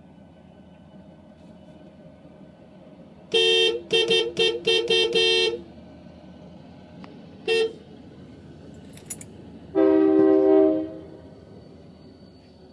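Locomotive air horn sounding a chord: a quick run of about six short toots, one short blast, then a longer blast, over a low rumble.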